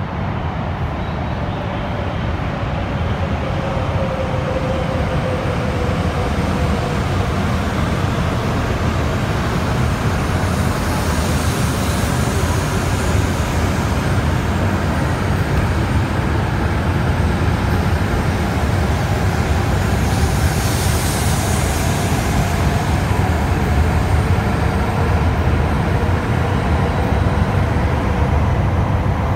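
An E7 series Shinkansen pulling out of the station and passing close by, accelerating. A steady, loud rumble of the cars running on the rails builds over the first few seconds, with a faint traction-motor whine that shifts in pitch as it gathers speed.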